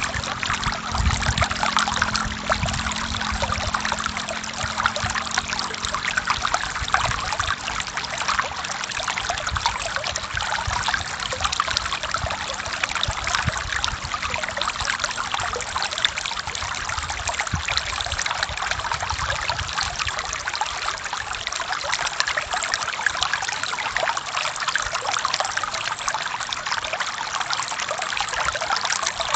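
A forest river flowing steadily over rocks, a continuous babbling and splashing of running water.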